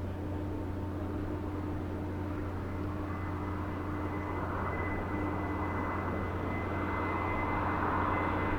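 Boeing 737-10 jet airliner with CFM LEAP-1B turbofan engines flying past, its engine noise growing gradually louder, with a thin steady whine that comes in about three seconds in.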